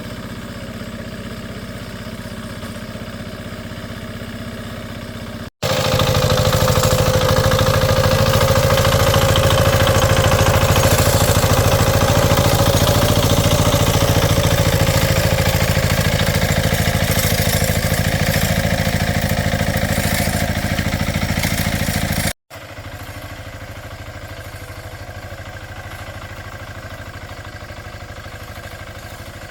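A small engine running steadily, heard in three cut-together stretches. The middle stretch is louder, with a steady whine.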